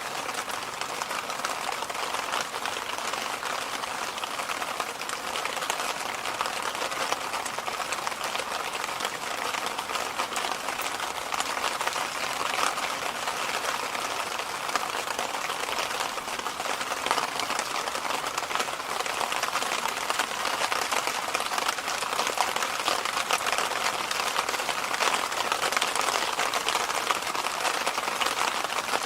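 Electric fan running steadily, a constant rushing of air with no changes.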